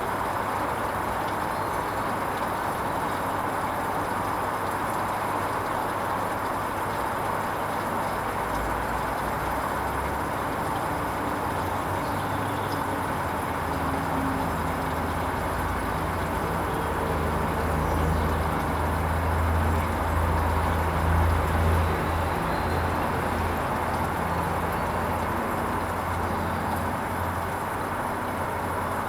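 Hoover Vision HVP16 washing machine running a silks wash: a steady noise throughout, with a low motor hum that comes in about a quarter of the way through, grows loudest past the middle, and fades again as the drum turns.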